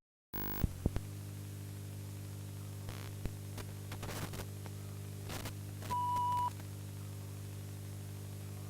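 A steady low hum with a few faint clicks, and a short high beep lasting about half a second around six seconds in.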